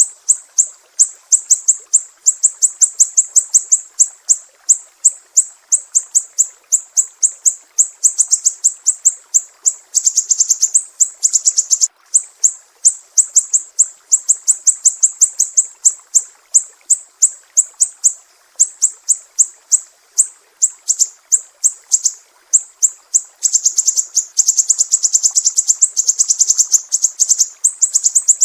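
Sumatran siri-siri bird singing a sharp, piercing song: a long run of high chirps, about three to four a second, thickening into rapid trills about ten seconds in and again near the end.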